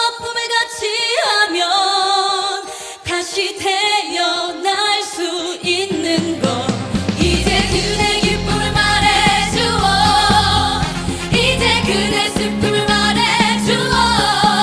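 Female trot singers singing live with wide vibrato over light accompaniment. About six seconds in, the full band comes in under them with bass and a steady beat.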